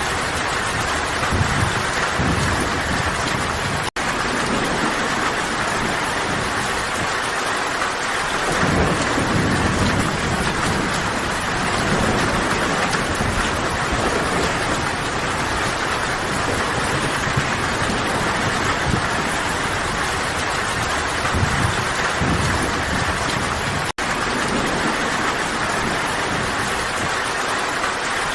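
Steady heavy rain falling, with low rumbles of thunder swelling and fading underneath. The sound drops out for an instant twice, about 4 seconds in and near the end.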